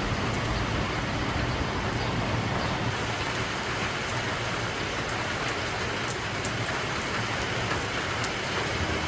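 Steady heavy rain falling, an even hiss with a few sharp drop ticks.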